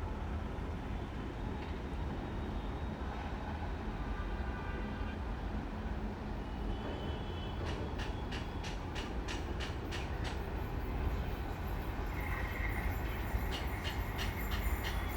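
Passenger express train running past with a steady low rumble. From about halfway, the wheels clack rhythmically over the rail joints, a few clacks a second, with a faint wheel squeal now and then.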